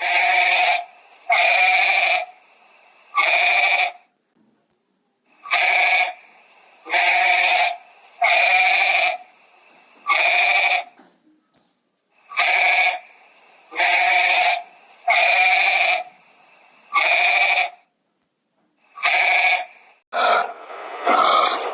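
An animal calling over and over: about a dozen near-identical calls, each under a second long, in runs of three or four with short pauses between runs. Near the end comes a rougher call that wavers in pitch.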